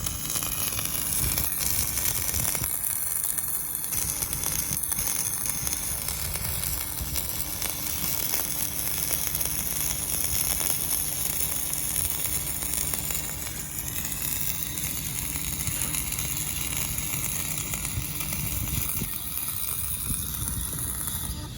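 Electric arc welding on stainless steel: the arc crackles and sizzles steadily. A faint steady hum underneath stops near the end.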